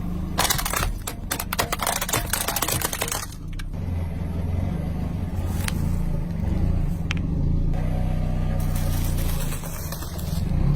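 Car engine running steadily while its tyres crush something crunchy: a dense burst of crackling and snapping in the first three seconds, then two single sharp snaps.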